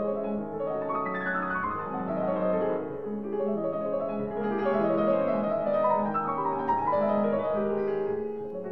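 Background piano music: a flowing melody over sustained chords.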